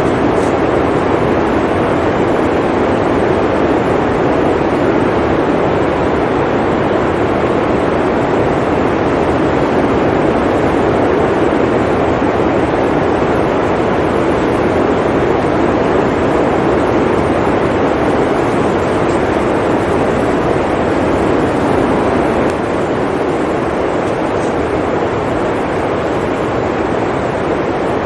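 Blizzard wind blowing as a loud, steady, low rushing noise with no distinct gusts or other events; it drops a little in level about three-quarters of the way through.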